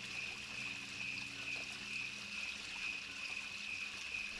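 Night insects, crickets, calling in a steady unbroken high-pitched chorus.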